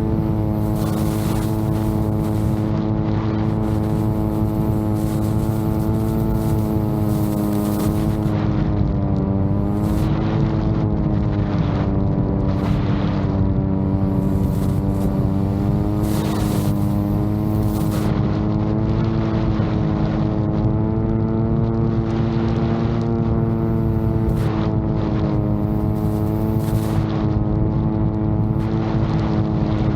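VTOL drone's propellers running with a steady hum that wavers slightly in pitch, while strong wind buffets the microphone in irregular gusts.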